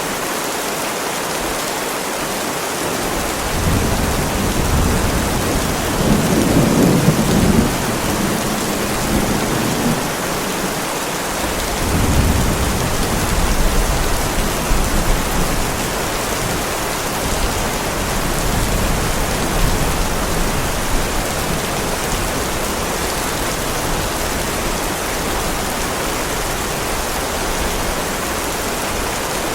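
Heavy rain falling steadily on a driveway, with rolls of thunder rumbling in a few seconds in and again near the middle, then dying away.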